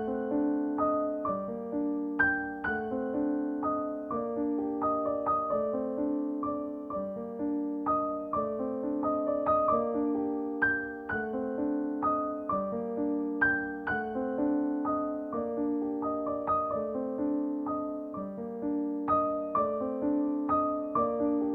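Background piano music: a gentle, steady run of repeated notes and chords.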